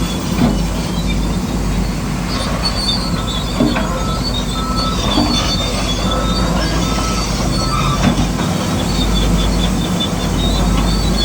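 Radio-controlled model construction machinery running: small electric motors and gears whining steadily, with short high squeaks and scattered clicks of metal parts.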